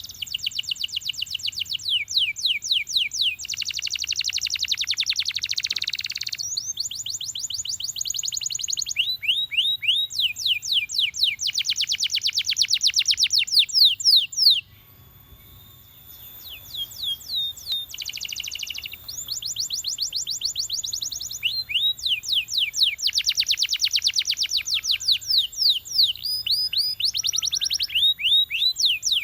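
Domestic canary singing: a long song made of phrases of fast, evenly repeated notes, each phrase a different trill, with a brief pause about halfway through.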